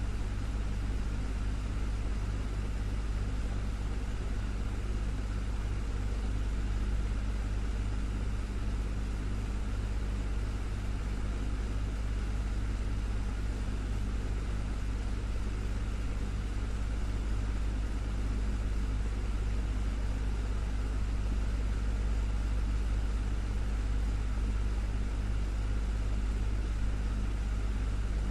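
Desktop fan running steadily: a constant low hum under an even whoosh of moving air.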